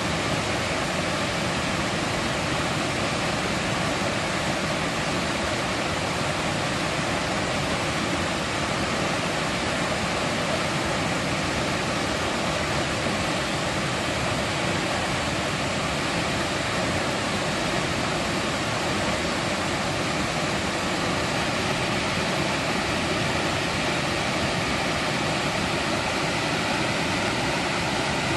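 Mountain valley stream rushing over rocks, a steady, dense flow of water.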